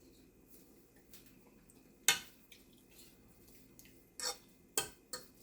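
A spoon knocking and scraping against a cooking pot of seasoned rice: one sharp clink about two seconds in, then three more close together near the end, as a taste is scooped out.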